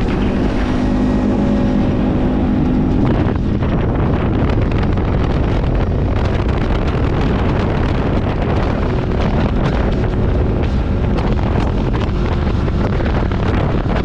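Rented quad bike's engine running while riding, with wind buffeting the microphone. A steady engine tone is clear for about the first three seconds, then a constant rush of wind and rumble takes over.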